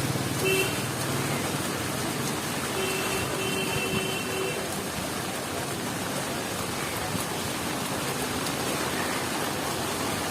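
Heavy rain hissing steadily on a city street, with traffic. A vehicle horn sounds briefly about half a second in, then again in a few short honks around three to four seconds in.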